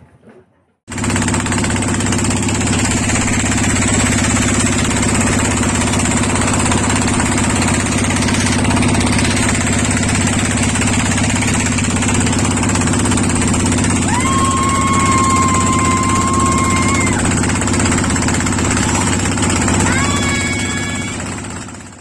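Engine running loud and steady, with a constant low hum and a high whine. About two-thirds of the way through, a clear whistle-like tone is held for about three seconds, and a shorter one comes near the end.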